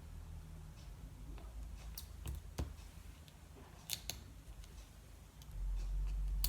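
A few sharp snips of craft scissors amid light handling of paper and card, then a low rumble of handling against the work surface near the end.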